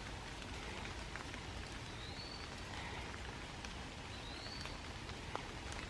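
Steady light rain falling on the woodland leaves, with scattered drops ticking. A bird gives two short high rising chirps, about two seconds in and again near four and a half seconds.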